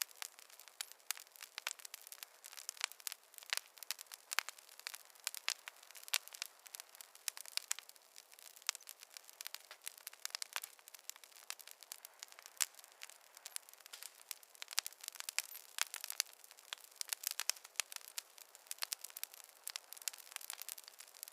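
Fireplace wood fire crackling: a dense, irregular stream of small snaps and pops over a faint hiss, with no low rumble.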